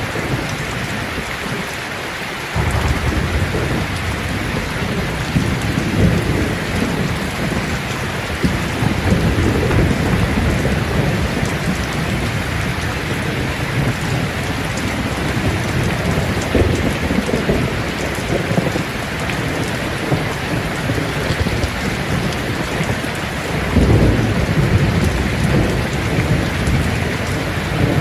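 Steady rain falling on leaves, with thunder rumbling low underneath. The rumble sets in suddenly about two and a half seconds in and swells several times, loudest near the end.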